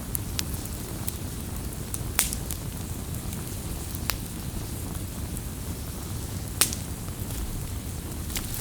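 Wood campfire burning with a steady low rumble of flame. Sharp crackling pops sound now and then, three of them louder: about two seconds in, about four seconds in, and near the middle of the last third.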